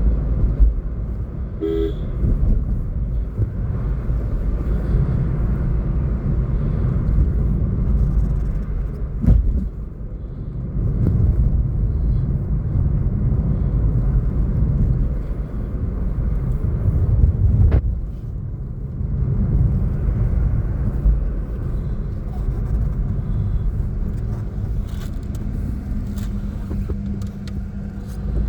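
Car driving on a hill road, a steady low engine and road rumble, with a short horn toot about two seconds in and a couple of sharp knocks later on.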